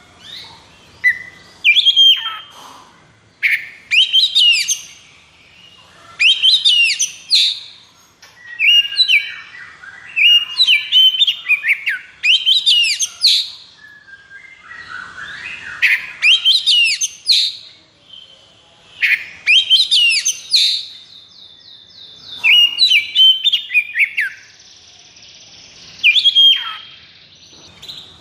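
Oriental magpie-robin (kacer) singing in loud bursts of rapid whistled and chattering phrases with short pauses between them, in the agitated fighting style keepers call 'konslet'. About three-quarters of the way through comes a longer even rattle.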